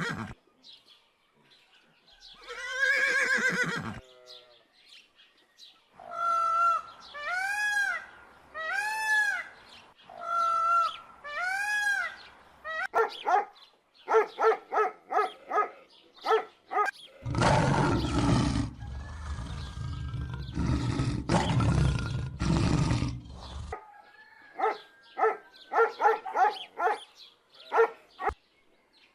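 A series of different animal calls one after another: a single drawn-out call, then five arching calls, quick repeated notes, a loud rough roaring stretch in several pulses, and more quick notes near the end.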